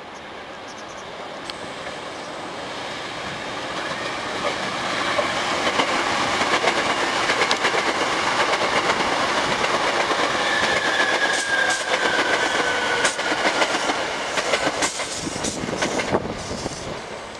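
Hankyu 3300 series resistor-controlled electric train running past, its noise building up and then fading near the end. Wheels clatter over rail joints, and a motor whine slides down in pitch about ten seconds in.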